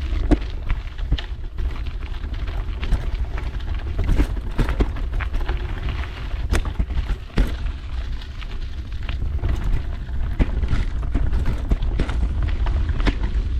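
Mountain bike riding over a rough trail: low wind rumble on the action camera's microphone, with frequent irregular clicks and rattles.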